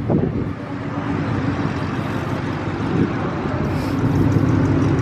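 Car engine running with tyre and road noise, a steady low hum that grows gradually louder over the few seconds.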